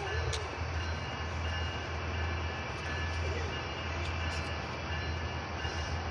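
Amtrak passenger train's diesel locomotive approaching slowly: a steady low engine drone with a broad rumble over it.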